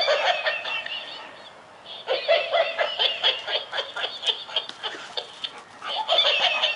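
Electronic giggling monkey toy playing its recorded high-pitched giggles in three runs with brief pauses between them.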